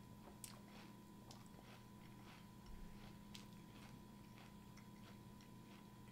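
A mouthful of Frosted Mini Wheats Maple Brown Sugar cereal in milk being chewed: faint, soft crunching, about three chews a second.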